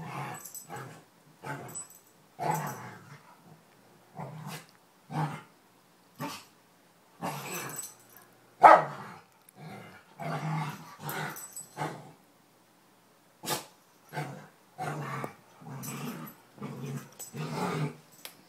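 Two dogs play-fighting, growling and barking in short, repeated bursts, with the loudest burst about nine seconds in.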